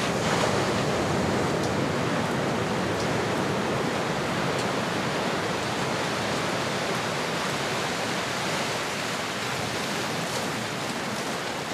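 Recorded ocean surf: a steady, even wash of waves, briefly louder about half a second in.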